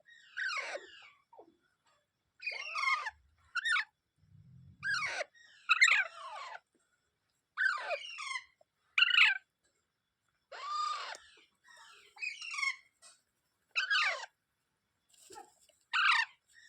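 Indian ringneck parrot giving a series of short, harsh squawking calls, about a dozen, mostly falling in pitch, in clusters separated by brief pauses.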